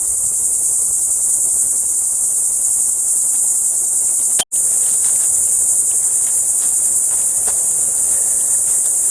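Steady high-pitched chorus of insects singing in the forest, cutting out for an instant about four and a half seconds in. Faint scattered ticks in the second half.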